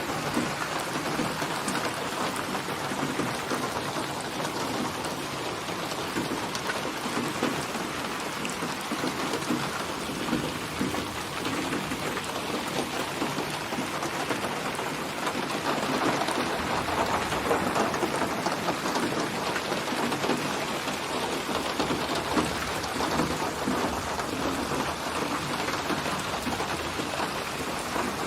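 Steady rain falling, with a low rumble of thunder swelling about midway through.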